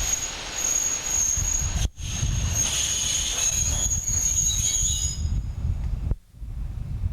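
Freight wagons rolling slowly over the rails during shunting: a low rumble of wheels with a steady, high-pitched wheel squeal that fades out about five seconds in. The sound breaks off abruptly twice, near two seconds and six seconds in.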